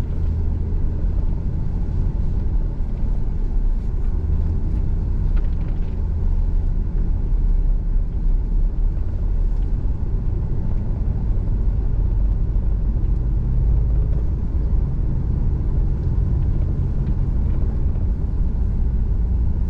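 Steady low rumble of a vehicle driving along, engine and road noise.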